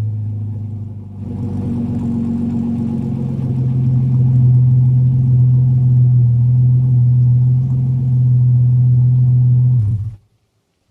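Holden VS ute's V6 idling steadily through a 2.5-inch Redback single-muffler cat-back exhaust with a 200-cell hi-flow catalytic converter. It dips briefly about a second in, then runs a little louder until the sound cuts off abruptly near the end.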